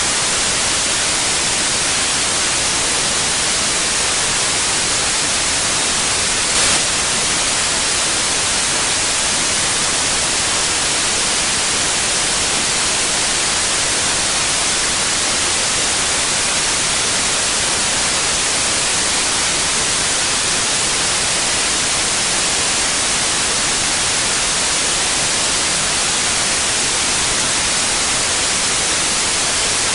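Steady white noise: an even, unbroken hiss, brightest in the high end. One brief click about seven seconds in.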